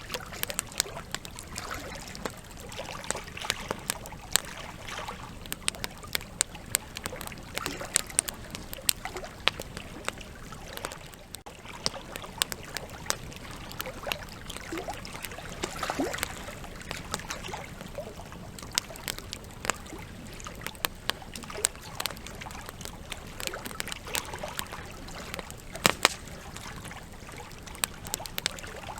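Campfire logs burning, crackling and popping irregularly over a steady hiss, with two louder pops close together near the end.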